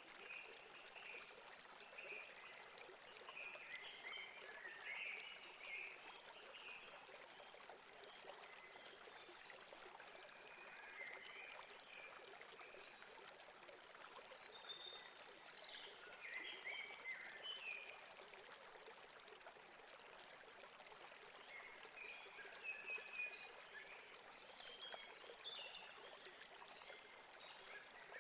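Faint river water running steadily, with small birds chirping on and off over it; the bird calls come in short flurries, the loudest about halfway through and again near the end.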